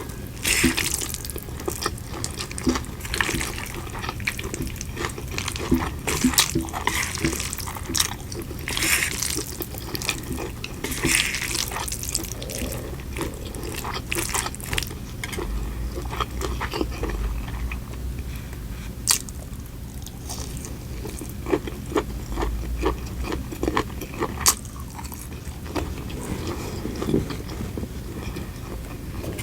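A person eating: chewing, with crisp crunches, wet mouth sounds and many short clicks.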